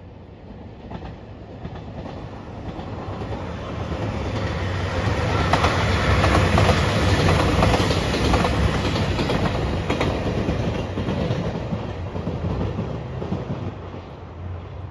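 A JR Shikoku 2700 series diesel express train passes at speed, its engines and wheels clattering on the rails. The sound swells over a few seconds, is loudest around the middle, and fades away as the train leaves.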